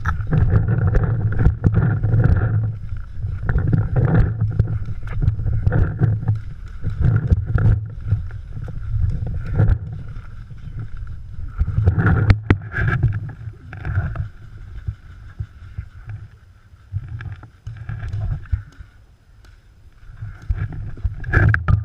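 Footsteps and gear rustling on a body-worn camera as a paintball player moves across the field, with heavy thumps in uneven runs and a few sharp clicks.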